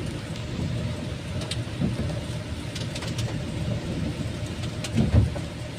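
Inside a moving car in the rain: a steady low rumble of engine and road, with a few light ticks of rain on the car and a loud low thump about five seconds in.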